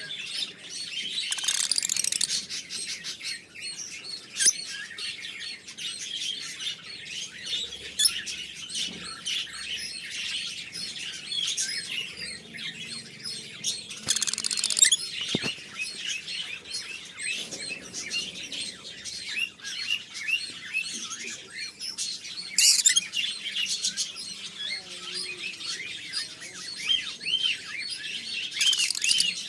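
Parrots chirping and chattering continuously in a dense stream of short, high chirps, with a brief burst of noise about halfway through.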